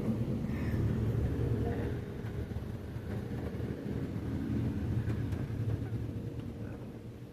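Automatic car wash machinery running with a steady low rumble that eases off near the end.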